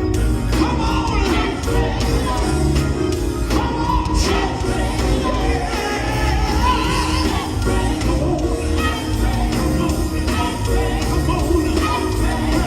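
Live gospel band playing with singing over a steady heavy bass, and crowd shouts now and then.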